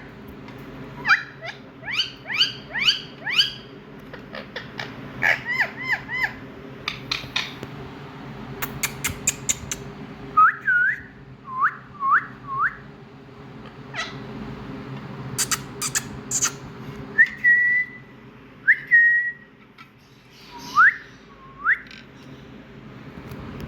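Indian ringneck parakeet calling: quick runs of short harsh squawks and sharp clicks, then swooping whistles that dip and rise, a couple held briefly near the end. A steady low hum runs underneath.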